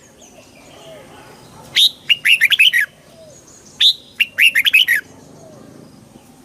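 Red-whiskered bulbul singing. Two short song phrases about two seconds apart, each a loud opening note followed by a quick run of chirping notes.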